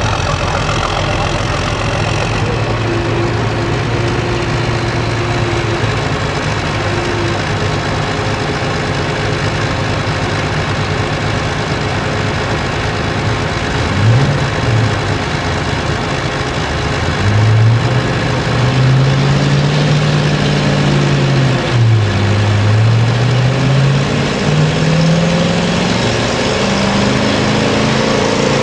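A pulling truck's engine running loudly at a steady note, blipped up and down once about halfway through, then revving repeatedly in the last third, its pitch rising, dropping and rising again.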